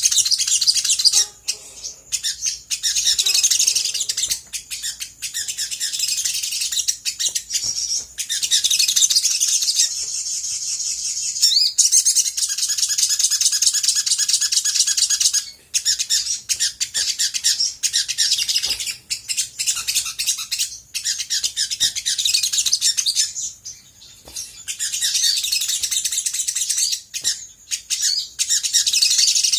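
Olive-backed sunbird singing a fast, near-continuous high-pitched chattering twitter, broken by a couple of short pauses.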